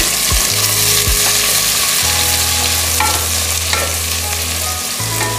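Chopped onion and carrot sizzling in hot mustard oil in an aluminium pressure cooker, stirred with a wooden spoon, with a few light taps of the spoon against the pot.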